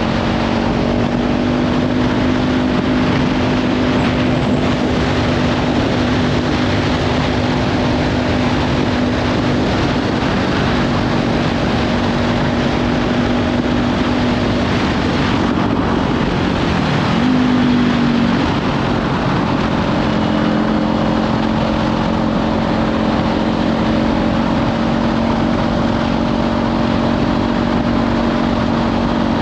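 Kawasaki Ninja 500's parallel-twin engine with a Leovince slip-on exhaust running at a steady cruising speed, under heavy wind noise on the microphone. About halfway the engine note fades, briefly jumps up in pitch, then settles again at a slightly different steady pitch.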